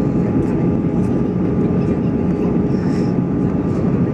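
Steady cabin roar of an Airbus A320-214 in flight on approach: its CFM56 jet engines and the rushing airflow, heard inside the cabin, with faint steady hum tones over the noise.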